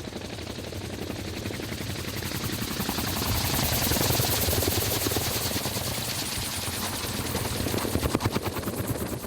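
Rapid, steady chop of rotor blades from a rotorcraft in flight, growing louder over the first few seconds and then holding level.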